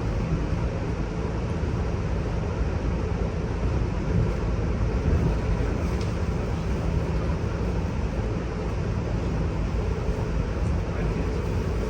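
Steady low rumble of an Amtrak Superliner passenger car rolling on the rails, heard from inside the car. A faint steady hum comes in near the end.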